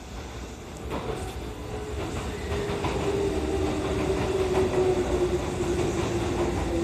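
Kintetsu 80010 series "Hinotori" electric train pulling into the station, growing louder over the first few seconds. Its wheels clack over rail joints, and a whine falls slowly in pitch as the train slows.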